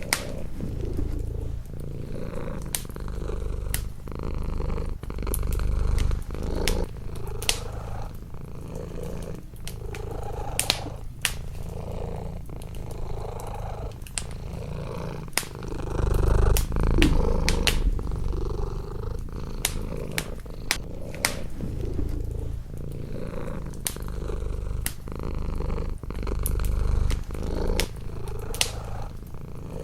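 A domestic cat purring steadily and close, the purr swelling and easing with each breath, over the crackle and pop of a wood fire in a fireplace.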